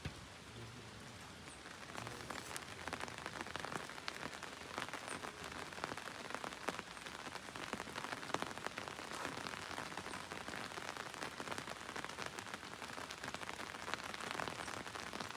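Rain pattering on surfaces: a steady hiss full of many small drop ticks, growing denser about two seconds in.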